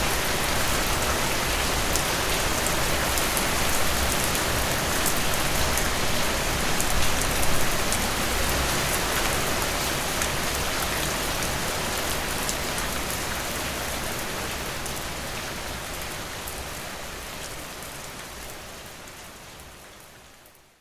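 Heavy rain falling steadily, a dense hiss speckled with sharp drop ticks, fading out gradually over the second half until it is gone.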